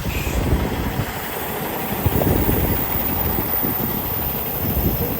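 Semi-truck engine running with a steady low rumble.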